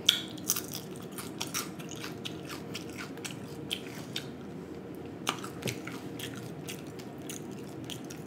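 Person chewing mouthfuls of whole fried snapper, with sharp crunches as it is bitten. The loudest crunch comes right at the start, more follow through the first half, and another pair comes about five seconds in.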